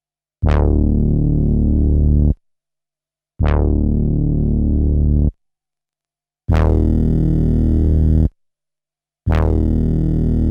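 A low synthesizer-style sample note played back from a 12-bit SP1200 sampler four times. Each note lasts about two seconds, opens bright and quickly dulls, and is followed by about a second of silence. The last two playbacks carry noticeably more high-end brightness than the first two.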